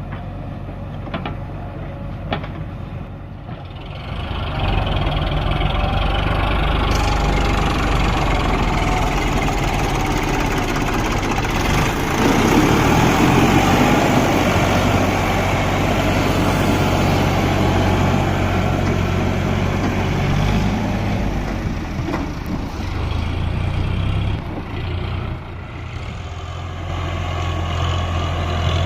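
Tractor's diesel engine running under load while hauling a heavily loaded trolley. The engine picks up about four seconds in, works hardest around the middle, then eases off and builds again near the end.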